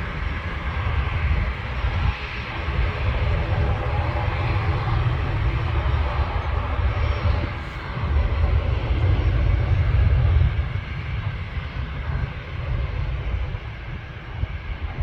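Jet airliner engines heard from a distance, a steady low rumble with a hiss above it that swells and eases in loudness.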